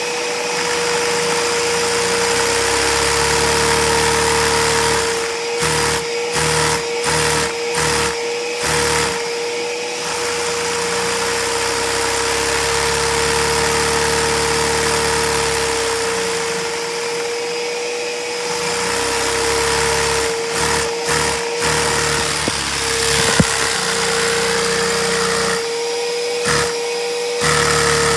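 Lego inline-two vacuum engine running at high speed, its low running note cutting in and out in stutters several times, over the steady high whine of the vacuum cleaner that drives it.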